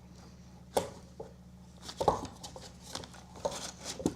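A few light clicks and knocks, about four, from small parts being handled while bolts are Loctited during a muffler install, over a steady low hum.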